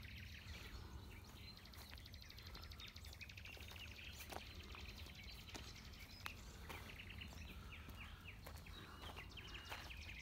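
Faint outdoor birdsong: several birds chirping, with a quick trill about two seconds in, over a low steady rumble.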